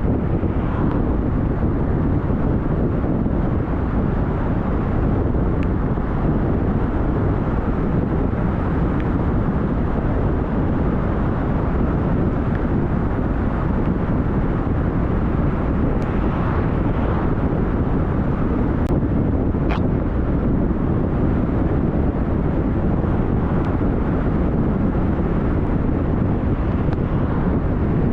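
Steady low rumble of a car driving, with road and wind noise, and a few brief sharp clicks here and there.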